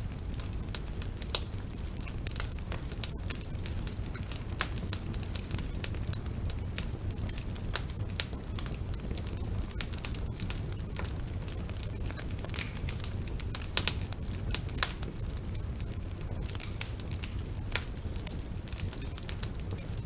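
Wood fire burning in a fireplace, with a steady low rumble under frequent irregular sharp crackles and pops.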